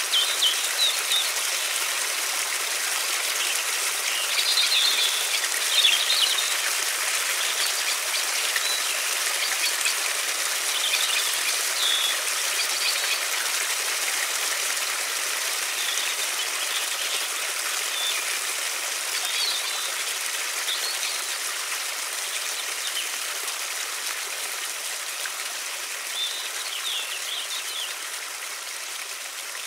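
A river flowing steadily, with birds chirping now and then over the water sound. The water sound grows slightly fainter toward the end.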